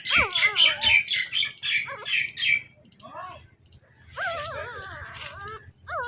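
Newborn puppies squeaking and whimpering: a rapid run of short high squeaks, about four a second, for the first two and a half seconds, then several wavering whines.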